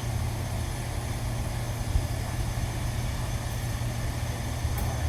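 A steady low engine-like hum runs throughout, with a brief knock about two seconds in.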